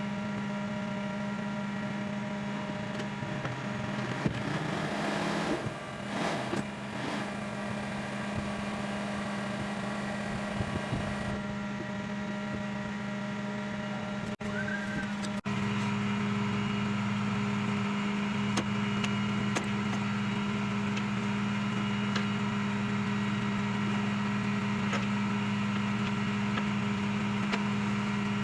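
Rollback tow truck running steadily with its PTO engaged to drive the bed's hydraulics while a car is being loaded, with scattered clanks. A little past halfway the running sound turns louder and fuller.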